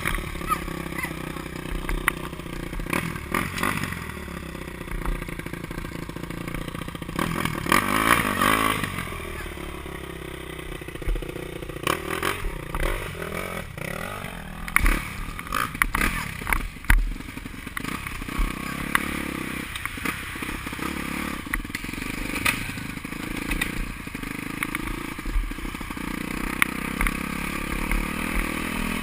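Motocross motorcycle engines running, rising and falling in pitch as they rev, with scattered knocks and bumps close to the microphone.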